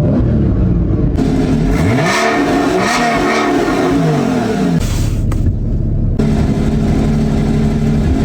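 Porsche Cayman S 3.4-litre flat-six engine revving up and down twice in quick succession, then settling to a steady note about five seconds in.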